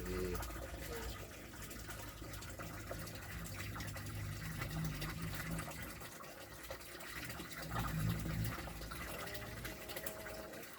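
Water running and splashing steadily in a koi pond or fish tank.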